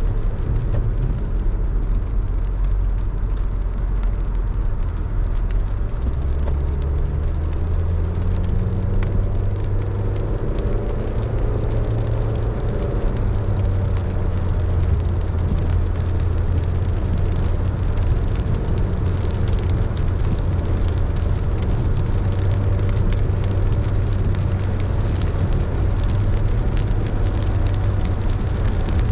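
A car driving in the rain: a low engine hum with road noise and rain falling on the car. The engine note steps up about six seconds in and rises for several seconds as the car accelerates, then holds steady.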